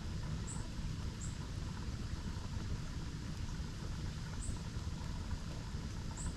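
Steady low rush of a nearby waterfall, with a bird giving four short, high chirps spaced irregularly over it.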